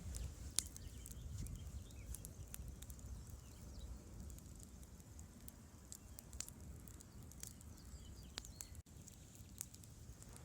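Campfire crackling, with irregular sharp pops and snaps from the burning wood over a faint low rumble. The sound drops out for an instant near the end.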